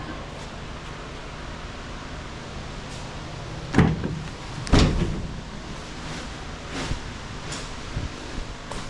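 Two loud thumps about a second apart, a little before the middle, followed by several lighter knocks, over a steady low hum.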